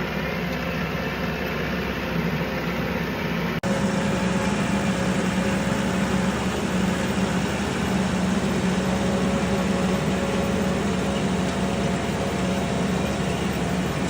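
Tractor engine running steadily while driving a hay tedder through the PTO. About three and a half seconds in the sound cuts abruptly and resumes slightly louder.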